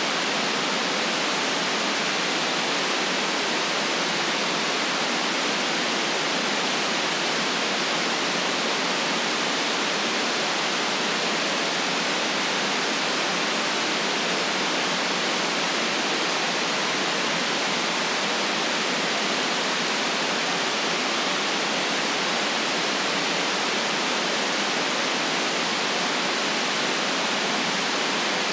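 Steady synthetic white noise: an even, unchanging hiss with no lows below about 150 Hz and a top cut off near 9 kHz.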